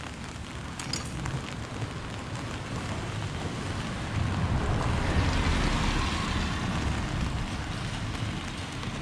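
Steady rain falling on a city street, with a vehicle passing on the wet road: its tyre hiss and low rumble swell about four seconds in and fade again toward the end.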